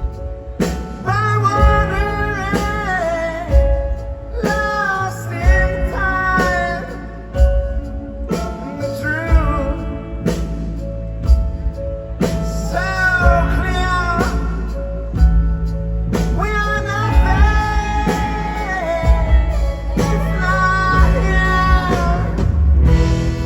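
Indie rock band playing live: sung vocal lines in phrases a few seconds long over electric guitar, bass and drums.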